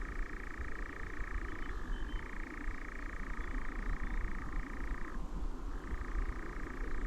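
European nightjars churring: a long, steady, mechanical-sounding trill that pauses briefly about two seconds in and again just after five seconds, with a slight drop in pitch between. A low rumble of background noise runs underneath.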